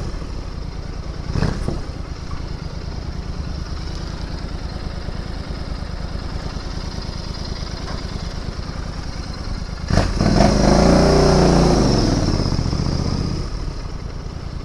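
Royal Enfield Interceptor 650's parallel-twin engine running steadily at low revs. About ten seconds in it revs up and falls back over roughly three seconds.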